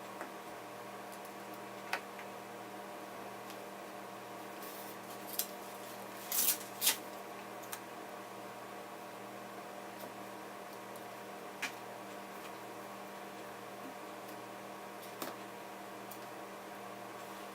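Steady electrical mains hum with scattered small clicks and taps from hand work on a laptop on the bench, including a short cluster of clicks about six seconds in.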